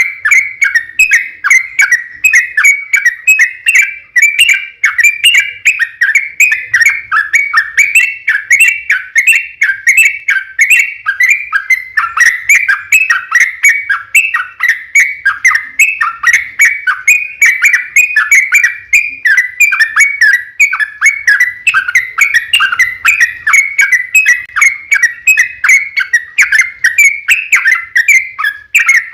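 Yellow-vented bulbul (trucukan) singing a long, unbroken run of quick, loud chirping notes at a fairly even pitch, the drawn-out 'ropel panjang' song used as a lure to make other bulbuls answer.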